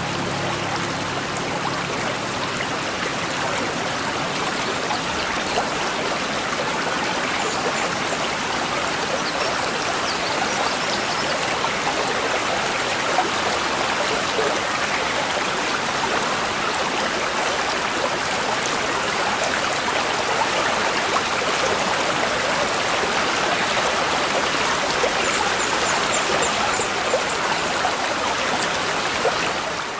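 Small brook babbling: a steady rushing and trickling of shallow running water, with a few faint high chirps.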